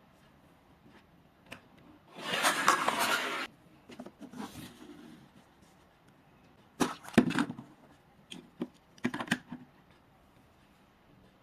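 Handling noises: a scraping, rustling burst lasting about a second and a half, then two clusters of sharp clicks and knocks later on.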